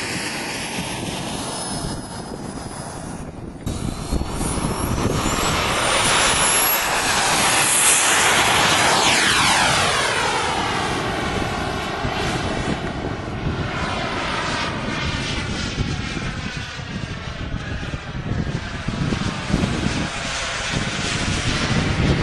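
RC model jet's turbine engine running: a loud, steady rush of jet noise with a high whine that climbs in pitch a few seconds in. It is loudest around the middle, and its sound sweeps and shifts as the jet moves.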